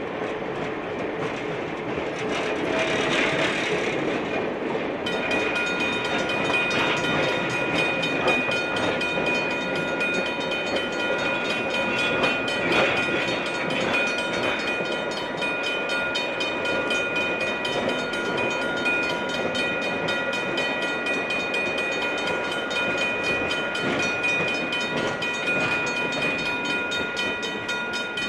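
Passenger train moving on the rail line, a steady rumbling noise, joined about five seconds in by several steady high ringing tones that carry on to the end.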